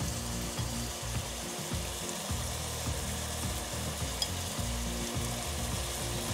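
Minced meat and onions sizzling steadily in a frying pan, with a low hum underneath.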